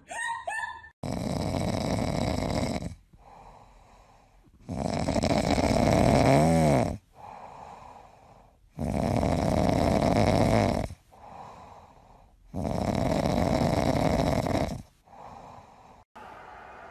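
Loud snoring: four long snores about four seconds apart, with quieter out-breaths between them.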